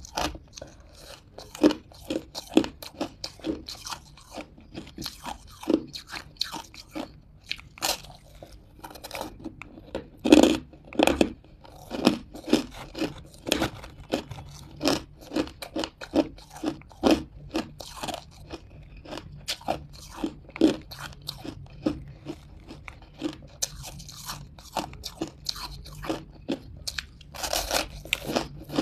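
Hard crunches of a person biting and chewing crumbly buckwheat chunks close to the microphone: an irregular run of sharp crunches, two or three a second, loudest around ten seconds in.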